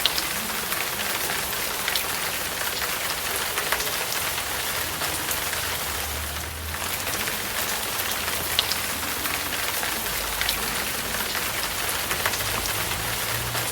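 Steady rain falling, heard as an even hiss with scattered sharp ticks of drops landing close by. A low rumble comes in about six seconds in and again from about ten seconds.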